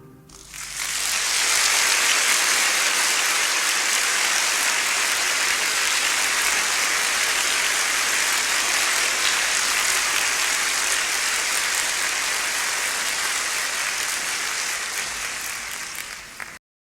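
Steady rushing water, an even hiss that swells in over the first second or so, holds level and cuts off suddenly near the end.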